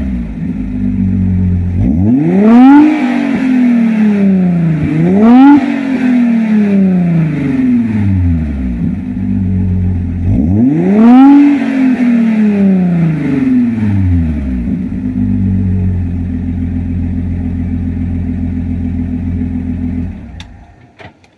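Audi C4 2.6 V6 running through an aftermarket exhaust (flame arrestor, Ferroz resonator and Remus rear muffler), blipped three times from idle. Each rev rises sharply and falls back slowly. It then idles steadily and stops near the end.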